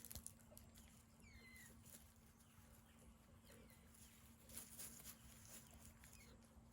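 Near silence: faint outdoor ambience with a low steady hum. A few soft, short bird chirps falling in pitch come about a second and a half in and again near the end, with light rustles in between.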